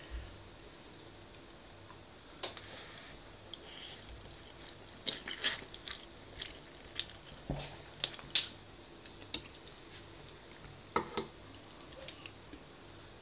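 Spaghetti bolognese being chewed close to the microphone: soft wet mouth sounds with scattered sharp clicks and smacks, in clusters about five, eight and eleven seconds in.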